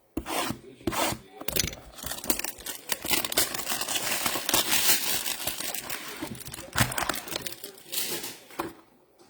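Trading card pack wrappers being torn open and crinkled by hand, a dense crackling rustle with many small snaps, busiest midway through.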